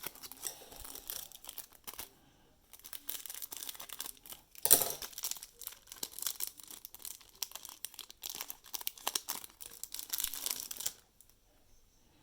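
Plastic trading-card pack wrappers crinkling and tearing as card packs are opened and handled. There is a short lull about two seconds in and a sharp loud crackle near the middle, and the crinkling stops about a second before the end.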